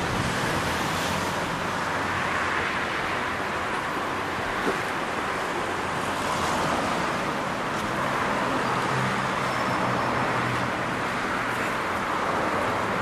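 A train drawing away into the distance, its sound fading under a steady rushing noise with a low hum.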